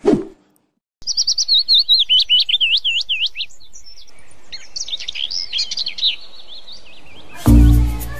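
Small birds chirping: a quick run of high, rising chirps, then a more jumbled stretch of chirps. Near the end, loud music with a deep bass comes in.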